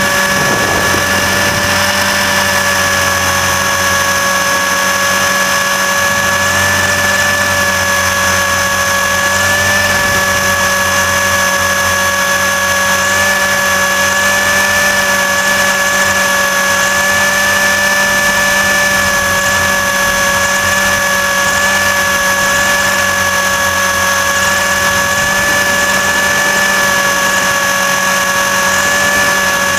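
RC helicopter's motor and rotor drivetrain running at a steady speed, heard close up from a camera mounted on the helicopter: a loud, even, high-pitched whine that holds its pitch throughout.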